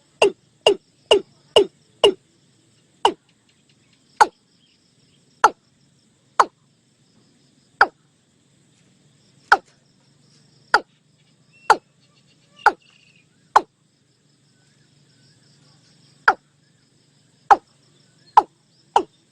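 Watercock calling: a series of short, sharp, falling 'kok' notes. About six come quickly at the start, then they slow to roughly one a second with a few longer gaps, and they quicken again near the end. Faint insects hum high in the background.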